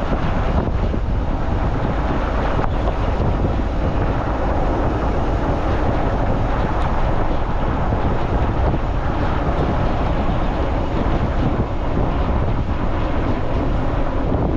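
Strong, steady wind buffeting the microphone, with surf washing on the shore beneath it.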